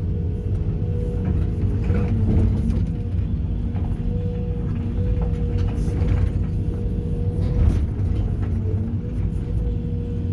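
Sumitomo SH210 excavator's diesel engine running steadily under load with a held hydraulic whine, with a few knocks and scrapes of the bucket in broken concrete debris.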